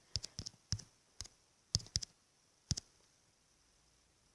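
Typing on a smartphone's on-screen keyboard: about seven separate, irregularly spaced clicks of key taps, then they stop about three seconds in.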